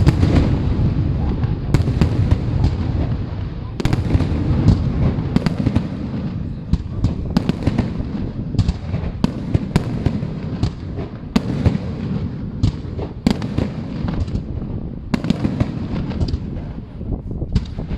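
Fireworks going off without pause: a dense low rumble of many bursts, with sharp bangs cracking through it about once or twice a second.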